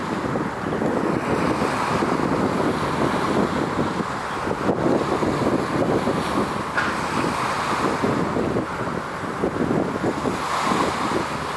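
Wind buffeting the microphone: a rough, uneven rushing noise that swells and eases without a break.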